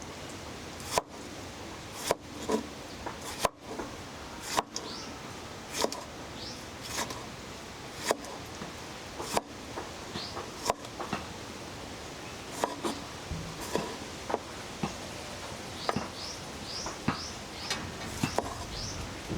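Sharp knocks repeating about once a second, coming more often in the second half, with short high bird chirps that grow more frequent near the end.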